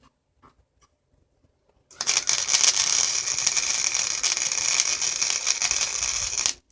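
Electric welding arc crackling steadily as a weld bead is run, starting abruptly about two seconds in and cutting off sharply near the end.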